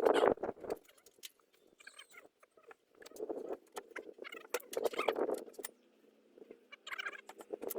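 Irregular clicks, taps and clattering knocks of hands-on chimney installation work, with a few louder bursts of clatter at the start, about three seconds in, about five seconds in and near the end.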